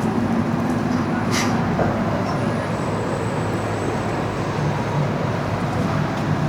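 City street traffic noise: a steady low engine rumble from road vehicles, with a single short click about a second and a half in.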